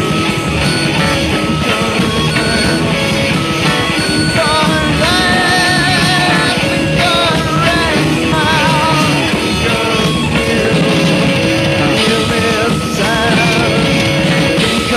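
Rock music from a band with guitar, with a wavering melody line in vibrato over a dense, steady backing.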